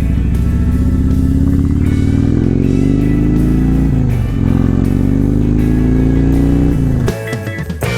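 Harley-Davidson Road Glide Ultra's V-twin engine accelerating, rising in pitch, dropping as it shifts up about four seconds in, then pulling up again. Near the end the engine falls away and background music is left.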